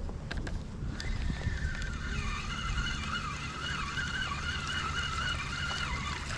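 A fishing reel being cranked to wind in the line: a whirring whine that wavers up and down about twice a second, starting about a second in and stopping just before the end, over low wind and water noise.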